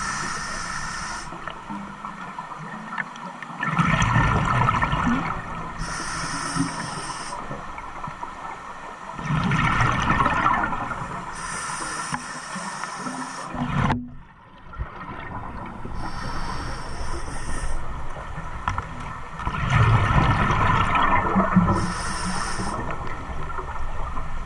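An engine running in a slow repeating cycle, with a surge of rumble and rushing noise about every six seconds and a hiss between surges. The sound drops out briefly about midway.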